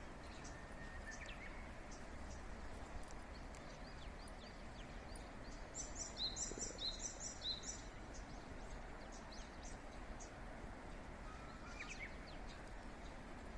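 Wild birds chirping, with a louder quick run of repeated high chirps about six seconds in and scattered short calls around it, over a steady outdoor background hiss.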